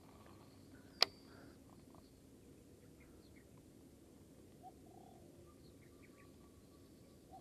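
Birds calling faintly: a few short low calls and thin high chirps. One sharp click sounds about a second in.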